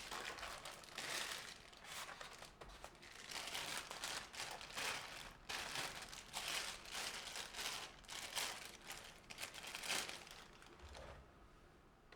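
Something crinkly being handled: irregular rustling and crinkling that stops about a second before the end.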